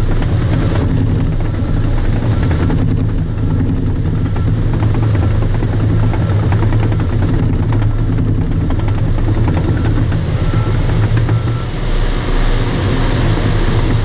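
Bulldozer's diesel engine running steadily under load, with the continuous clatter of its steel tracks.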